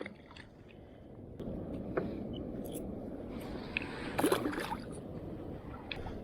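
Sea water sloshing and trickling around a fishing kayak, quiet at first and then steady from about a second and a half in, with a few short knocks and splashes over it, the strongest about four seconds in.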